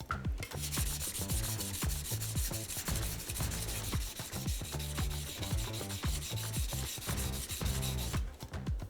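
A honyaki fugu-hiki knife blade worked on a whetstone: a continuous gritty scraping that starts just after the beginning and stops shortly before the end. Background music plays throughout.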